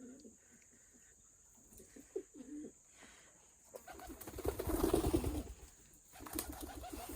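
Bird cooing in soft wavering calls, with a louder stretch from about four to six seconds in where a muffled rumble sits under the calls.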